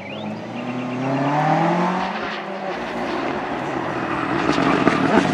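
Rally car engine at full throttle, its note climbing for about two seconds as it revs up, then growing louder as the car comes closer.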